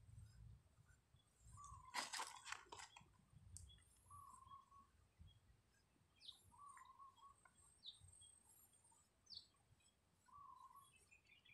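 Faint bird calls: a short warbling note repeated every two to three seconds, with a few brief higher chirps. A short burst of clicks and rustling comes about two seconds in.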